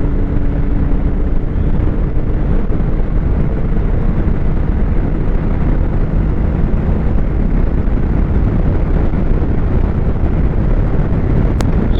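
Strong wind buffeting the microphone: a loud, steady, low rumble. Under it, a snowmobile engine's steady hum fades out about two seconds in.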